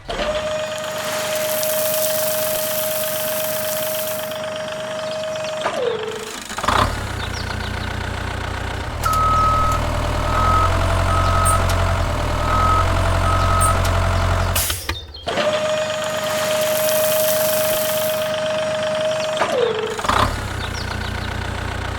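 Mini tractor engine sounds. A steady high whine drops in pitch and stops. Then a low engine runs while a reversing beeper sounds about five times. The whine-and-drop comes again, followed by the engine running on.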